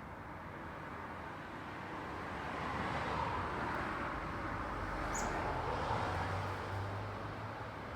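Road traffic: a steady rush of tyre and engine noise that swells as a vehicle passes, loudest from about three to seven seconds in, with a low engine hum near the end of the swell. A brief high chirp comes about five seconds in.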